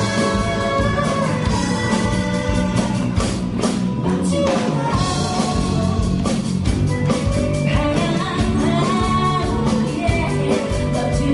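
Live rock band playing a song with a singer, electric guitar, bass and drum kit, heard loud and steady.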